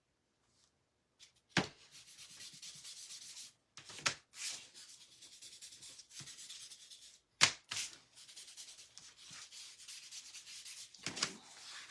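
Paintbrush scrubbing wax into the grooves of a picture frame: a steady scratchy rubbing that starts about a second in, broken by a few sharp knocks.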